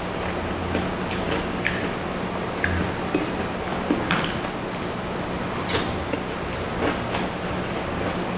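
Close-up wet chewing and biting of deep-fried street food, with irregular small crackles and mouth clicks, over a steady low hum.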